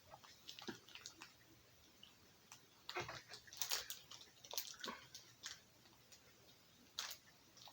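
Faint chewing of a chocolate bar: a scatter of soft mouth clicks and smacks, bunched around the middle and again near the end.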